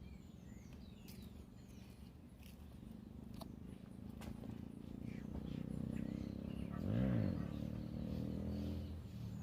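A motor engine approaching and passing close by, loudest about seven seconds in and then fading, with small birds chirping faintly.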